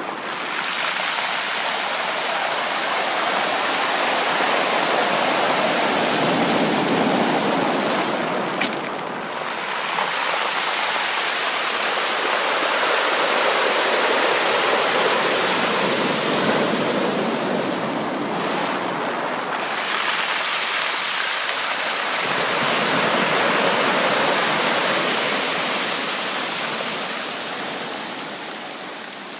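Sea waves breaking on a beach: a steady rush of surf that swells and eases in slow surges, fading near the end.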